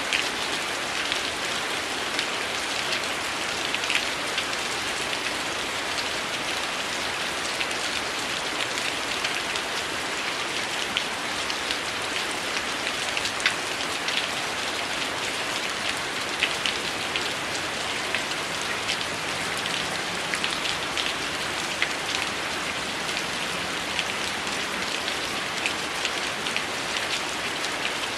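Heavy rain falling steadily as a dense, even hiss, with scattered sharp clicks and pops throughout.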